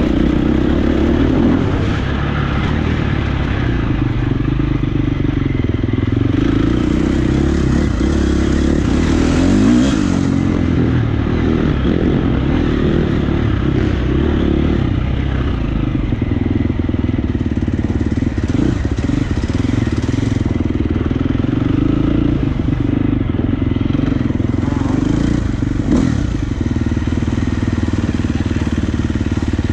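Motocross dirt bike engine running hard, its pitch rising and falling as the throttle opens and closes.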